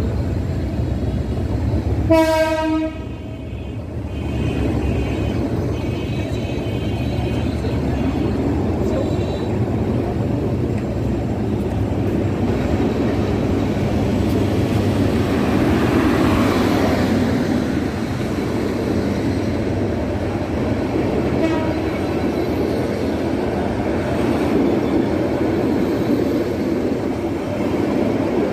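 Meter-gauge passenger train coaches rolling slowly past as the train pulls out, wheels and bogies rumbling and clattering on the rails. About two seconds in, the diesel locomotive's horn sounds once for about a second.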